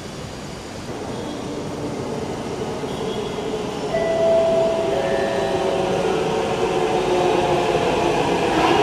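Hyderabad Metro train running and growing louder, with a steady whine that comes in about four seconds in.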